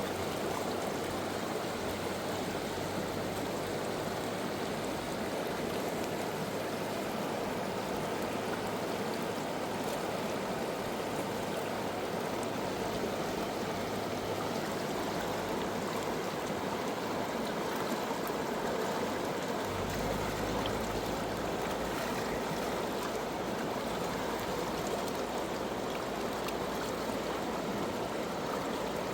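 River water flowing in a steady, even rush. A low hum joins about two-thirds of the way through.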